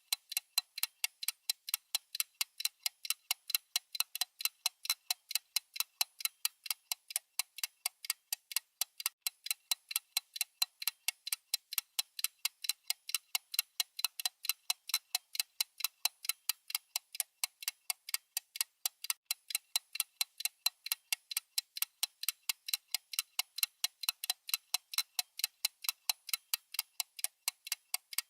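Clock-style ticking sound effect of a countdown timer: a steady, even run of thin, sharp ticks, several a second, alternating louder and softer like a tick-tock.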